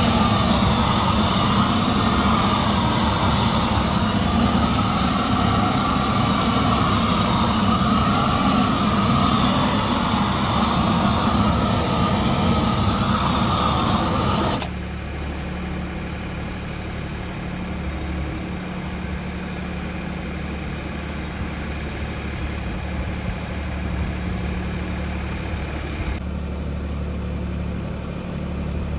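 A motor or engine running steadily, loud and noisy at first. About halfway through the sound cuts abruptly to a quieter, lower steady hum.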